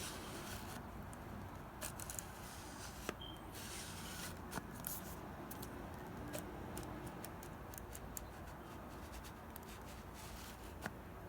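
Canon EF 75-300mm zoom lens making irregular clicks and scratchy noises as it is zoomed: abnormal noise from a brand-new lens, which the owner suspects was mishandled. A short high beep comes about three seconds in.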